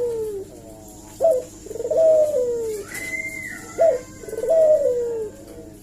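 Barbary dove (puter) cooing repeatedly. Each call is a short sharp note followed by a long, drawn-out coo that falls in pitch, about every two and a half seconds. A faint high whistle comes about halfway through.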